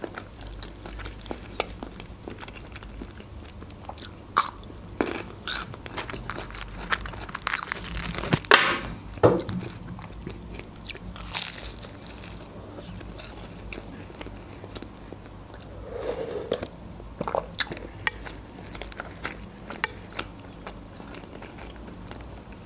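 Close-miked crunching and chewing of a flaky puff-pastry snack, with scattered sharp crunches. The loudest crunches come about eight to nine seconds in.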